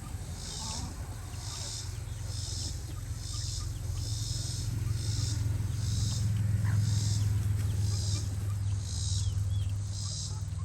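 A high-pitched pulsing chorus, evenly repeating about one and a half times a second, typical of insects on a summer evening, over a steady low hum that grows louder in the middle. A few faint short calls from the chickens come through.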